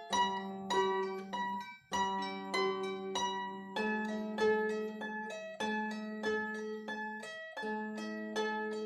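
26-string diatonic Celtic harp being played: a plucked melody ringing over repeated low bass notes, in phrases with two brief stops.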